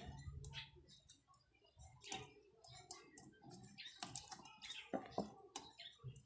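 Faint, irregular light clicks and small metallic taps of engine parts and hand tools being handled during motorcycle engine reassembly, a few sharper knocks around the middle.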